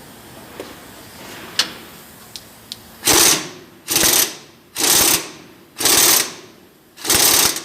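Pneumatic impact wrench driving the pump shaft of a truck's hydraulic cab tilt jack, in short rattling bursts. After a few faint clicks it fires five times, about once a second, each burst lasting about half a second.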